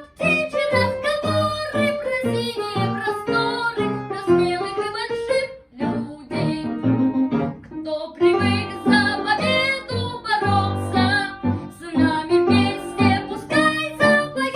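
A child singing a lively children's song over instrumental accompaniment, with a short break about six seconds in.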